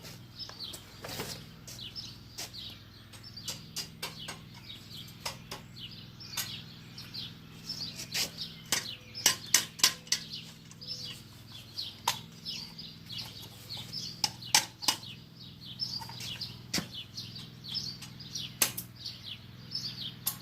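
Small birds chirping over and over, with scattered sharp clicks and knocks of metal being handled and a low steady hum underneath.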